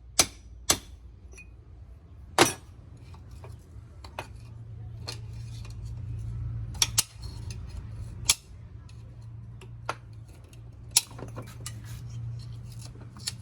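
Sharp metal clinks and taps, a few irregular strikes some seconds apart, over a steady low hum.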